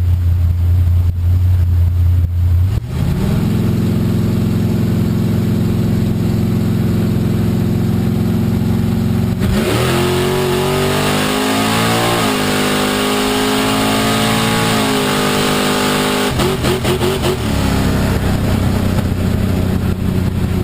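Chevy Nova drag car's engine heard from inside the car. It runs with a steady low drone at first. About nine and a half seconds in it goes to full throttle with the pitch climbing, drops once at a gear shift and climbs again, then the throttle comes off about seven seconds later and it settles back to a steady, lower running note.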